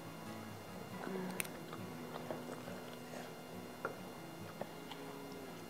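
A person chewing food quietly, with a few sharp light clicks of chopsticks against a ceramic plate and sauce bowl. Faint background music with held notes runs underneath.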